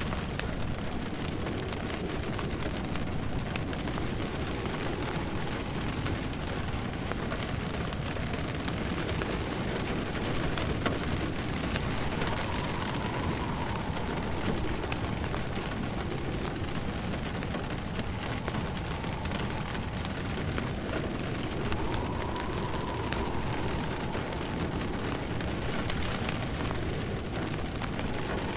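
Steady rain with a crackling wood fire. A faint whistle of wind rises and falls twice, around the middle and again later.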